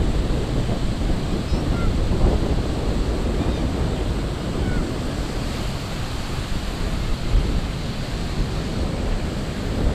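Ocean waves washing onto a beach, a steady surf noise, with wind buffeting the microphone as a low rumble. A few faint, short high chirps sound in the first half.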